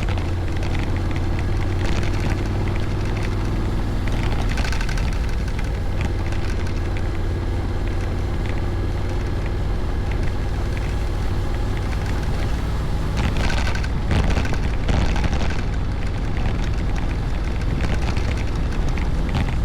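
Honda Forza 750 maxi-scooter's parallel-twin engine running steadily on the move, under a heavy rush of wind on the microphone, with a few louder gusts about two-thirds of the way in.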